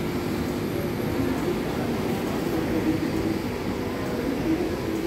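MTR East Rail Line R-Train electric train sound: a steady hum with several held, slightly wavering tones over a low rumble.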